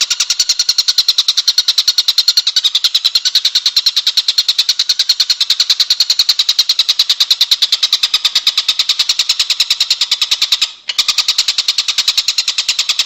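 A continuous rapid trill: a fast, even train of high-pitched pulses that keeps a steady pace, cutting out briefly about eleven seconds in. It is a call looped on a songbird masteran (training) recording.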